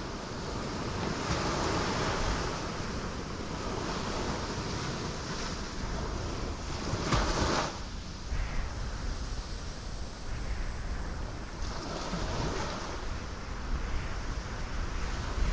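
Ocean waves breaking on rocks in a continuous rushing wash, swelling and ebbing, with the loudest crash about seven seconds in.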